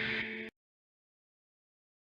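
Steady ambient synthesizer drone of held tones that cuts off abruptly about half a second in, leaving digital silence.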